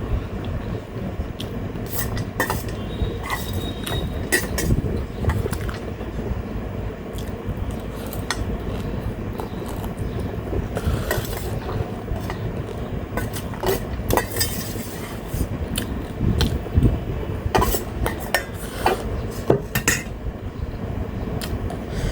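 Close-up eating sounds from a mukbang of momo and noodle salad: many short clicks and clinks against a plate, with chewing, over the steady hum of an electric fan.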